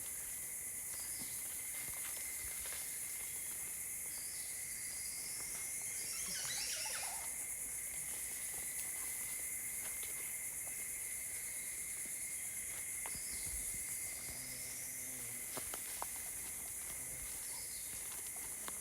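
Rainforest ambience: a steady high-pitched insect chorus with a thin steady whine under it. A few bird calls sound over it: a short gliding call about four seconds in and again about 13 seconds in, and a call sweeping downward about six seconds in.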